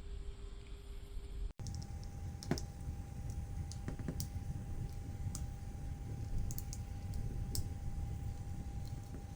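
Scattered light clicks and taps of small parts being handled during disassembly of a Dremel 4000 rotary tool, over a steady low hum. The sound drops out for an instant about one and a half seconds in.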